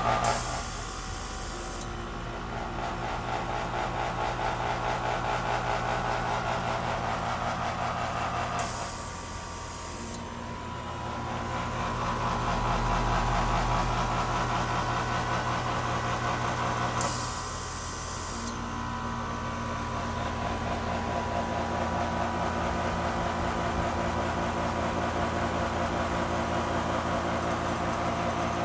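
Goodman air conditioner starting up with an unusual noise: a steady hum of many tones, broken by three short bursts of hiss about eight to nine seconds apart.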